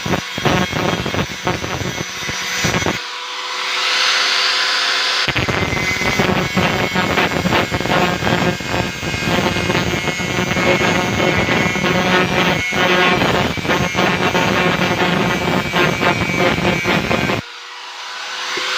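Angle grinder working on the steel casing of a refrigerator compressor, a continuous loud machine noise with rapid rough knocks. About three seconds in, it changes for about two seconds to a thin high hiss without the low rumble.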